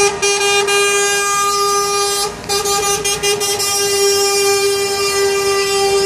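A passing convoy truck's horn held in a long, steady blast on one pitch, with a brief break a little over two seconds in.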